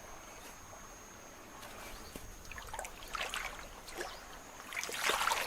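River water sloshing and splashing as something moves through it: a few irregular splashes start about halfway in and grow louder toward the end.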